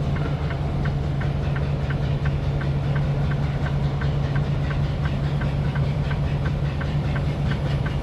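Semi-truck engine running in the cab, with a regular knocking about three times a second from a worn tire chain on a wheel.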